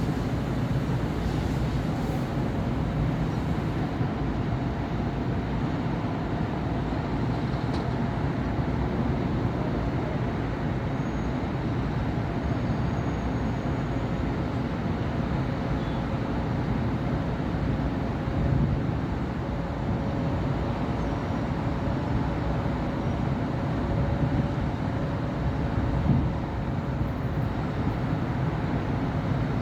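Steady city road traffic of cars and buses: a continuous low rumble of engines and tyres with a faint steady hum throughout, and brief louder swells twice, about two-thirds of the way in and near the end.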